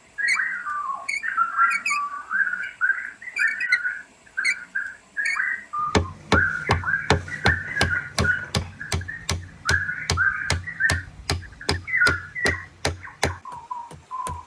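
Whistled, bird-like calls wavering in pitch throughout; about six seconds in, a steady knocking joins, roughly three knocks a second.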